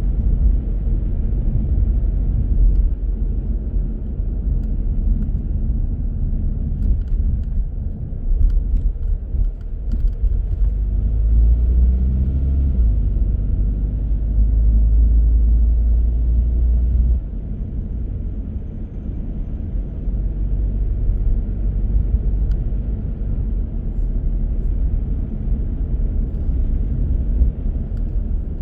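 Car driving, a steady low rumble of engine and tyre noise. It grows heavier around the middle and eases suddenly about two-thirds of the way through.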